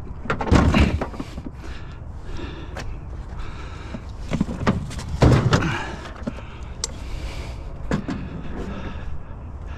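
Thumps, knocks and scraping of heavy objects being shifted around, the loudest about half a second in and again around five seconds, with lighter clicks and knocks between.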